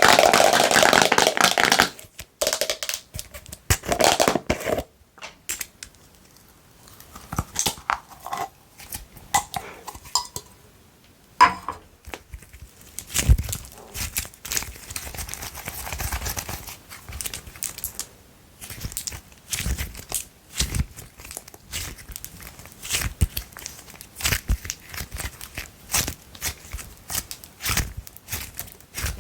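Slime being squished and worked by hand with long nails, giving sticky crackling and popping with irregular clicks. A loud dense squish opens it, then short pops and taps follow unevenly.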